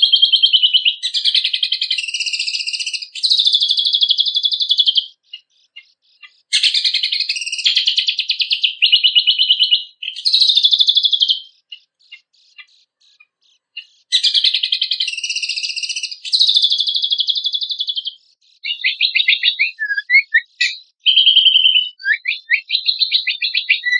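Cucak kombok (kecial kombok) songbird singing loud, rapid trilled phrases in bursts of a second or two, with pauses after about five seconds and again after about twelve. Near the end the song breaks into strings of short, quick notes and downward-slurred whistles.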